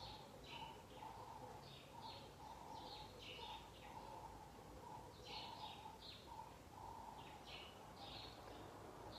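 Faint birdsong: scattered short, high chirps over a softer, lower note repeating about twice a second, against quiet room tone.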